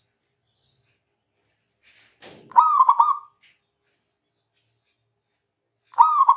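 Zebra dove (perkutut) cooing: one quick stuttering coo phrase of several short notes about two and a half seconds in, and another beginning near the end.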